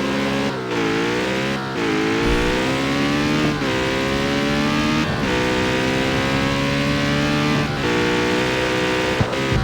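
Jaguar F-Type's V8 engine running under way, its note sagging and climbing in pitch, with short breaks in the sound several times.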